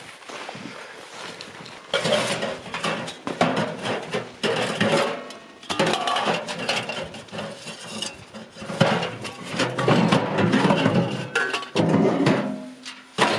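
Irregular clattering clinks and knocks, many in quick succession, growing busier about two seconds in.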